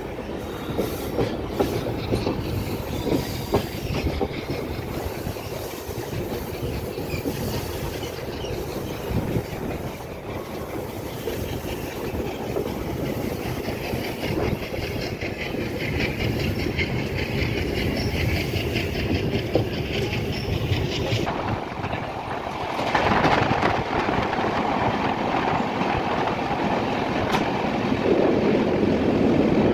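Express train running at speed, heard from inside a passenger coach, with wheel clicks over the rail joints. About three-quarters of the way through, the train enters a tunnel and the running noise turns louder and more boxed-in.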